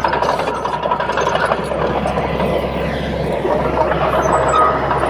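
Komatsu D31P crawler bulldozer's diesel engine running steadily, with a thin whine over it that shifts lower about halfway through.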